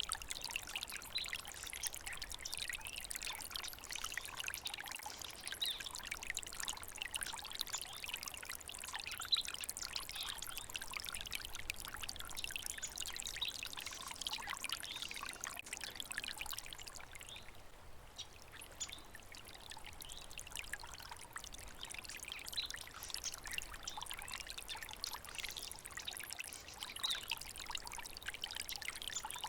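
Small stream of water trickling and splashing steadily, with a brief softer lull about two-thirds of the way through.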